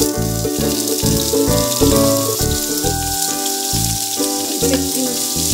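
Cubed raw papaya sizzling as it starts to fry in hot mustard oil in a kadai, a steady hiss. Background music with plucked notes and a pulsing bass plays over it.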